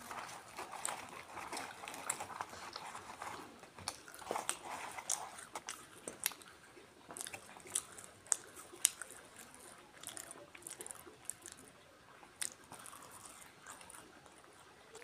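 A person chewing kochuri and potato-chickpea curry, a soft wet chewing sound broken by many sharp mouth clicks and smacks.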